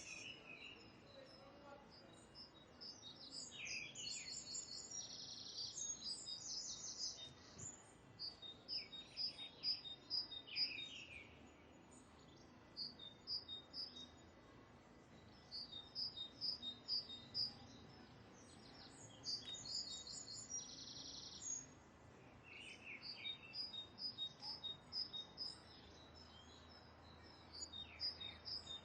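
A bird singing in repeated bouts of quick, high, chirping notes, each bout a few seconds long with short pauses between.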